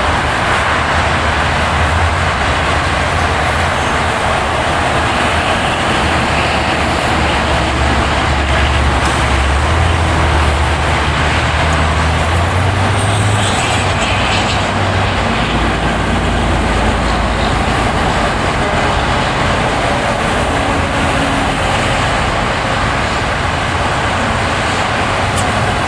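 A car driving: steady tyre and road noise with a low engine hum that shifts around halfway through.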